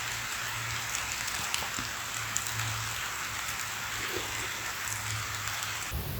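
Light rain falling: a steady hiss with scattered faint ticks of drops.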